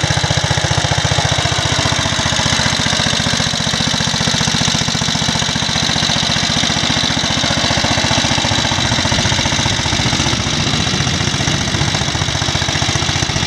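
Vintage Wisconsin AEH single-cylinder air-cooled engine running steadily as it drives a generator, with an even, rapid firing beat; it runs smoothly, its ignition timing set right after it had been 180 degrees out.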